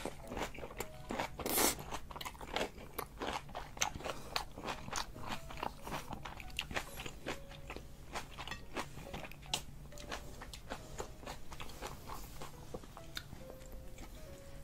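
Close-miked chewing of a big mouthful of spicy instant noodles, a dense run of small wet clicks and crunches, loudest about one and a half seconds in.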